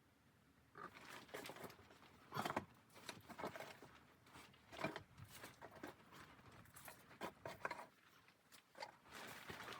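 Faint, irregular rustling with light clicks and knocks, like gear being handled, starting about a second in.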